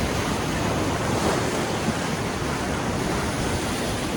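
Colorado River water rushing steadily, with wind noise on the microphone.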